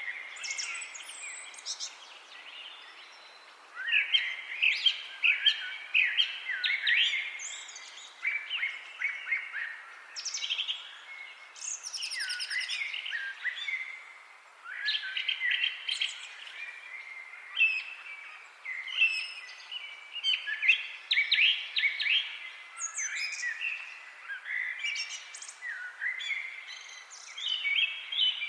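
Several songbirds chirping and trilling in quick, overlapping bouts over a faint steady hiss of forest ambience.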